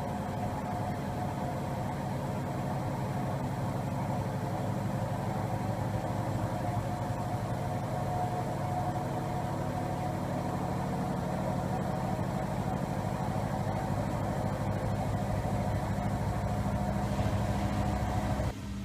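Siemens iQ700 front-loading washing machine spinning with an unbalanced load: a steady motor whine over a fast, even rattle of the drum, growing slightly louder, then cutting off suddenly near the end.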